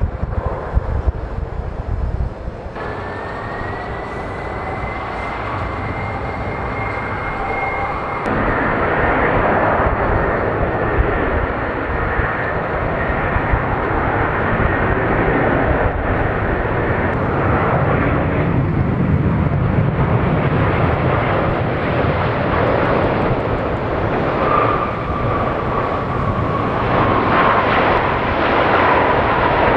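Jet airliner engines at takeoff power: a loud, wide jet noise with a high engine whine that swells as the aircraft passes. Near the end a second whine slowly drops in pitch as it goes by.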